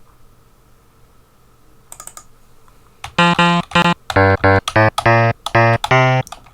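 A few computer keyboard clicks, then from about three seconds in a plucked, guitar-like Amiga Soundtracker sample played in Renoise as a quick run of separate short notes.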